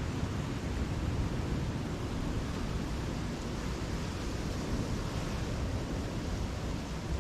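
Steady rush of sea waves and wind, an even noise heaviest in the low end, with no distinct breaks or events.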